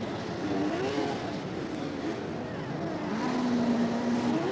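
Two-stroke engines of racing snowmobiles revving, the pitch rising and falling. About three seconds in, one note holds steady for a second, then climbs sharply near the end.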